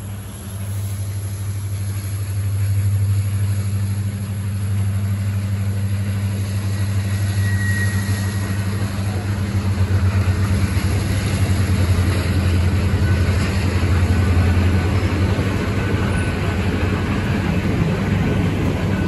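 A train passing slowly. The Union Pacific SD70ACe diesel locomotive sounds as a steady low drone, then passenger cars roll by, and the wheel and rail noise grows louder in the second half.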